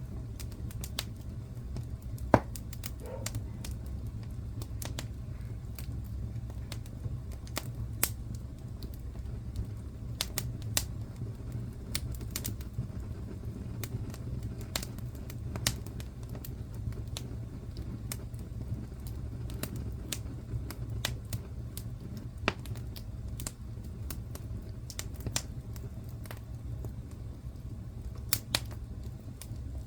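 Wood fire burning in a fireplace: irregular sharp crackles and pops over a steady low rumble, with one louder pop a couple of seconds in.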